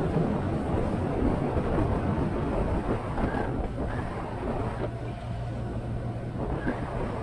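Motorcycle riding along at steady speed: heavy wind rush on the microphone over the engine's running note. The steady engine hum comes through more clearly from about halfway in.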